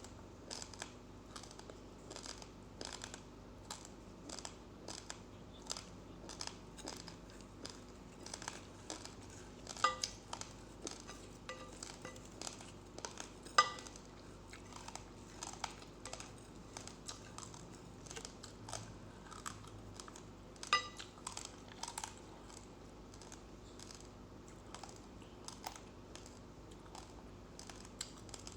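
Raw uncooked rice grains being chewed close to the microphone: steady crisp crunches about twice a second. A few louder clinks with a short ringing tone stand out among them.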